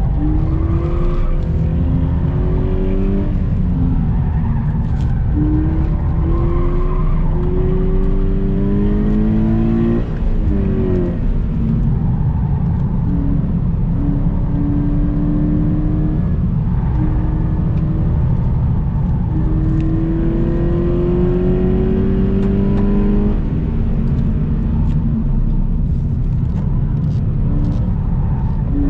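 Subaru BRZ's flat-four boxer engine heard from inside the car on track, revving up repeatedly under hard acceleration and dropping back at shifts and lifts, about three times, over steady road and wind noise.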